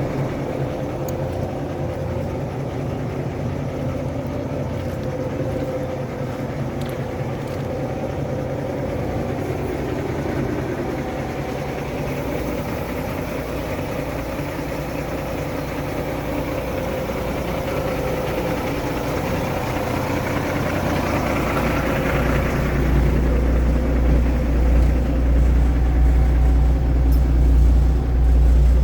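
Diesel engine of a 2010 Peterbilt 387 sleeper truck idling steadily. About three-quarters of the way in, a deeper rumble grows louder and stays.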